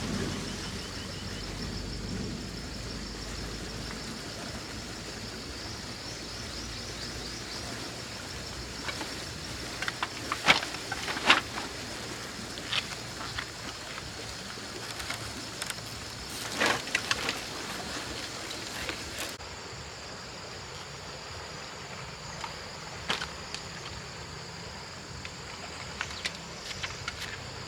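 Insects chirring steadily in the background, with a few sharp knocks and clinks, the loudest about ten and seventeen seconds in.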